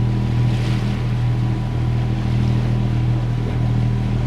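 Sailing yacht's engine running steadily under motor, a constant low drone, with a hiss of wind and water around the boat.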